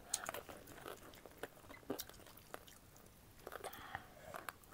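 Faint chewing and crunching of food, with scattered small crisp clicks.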